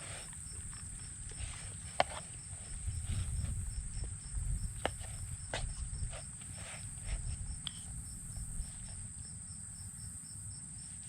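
Insects droning steadily in the background, with a cricket-like chirp repeating about three or four times a second. Scattered sharp clicks and a low rumble come from close by.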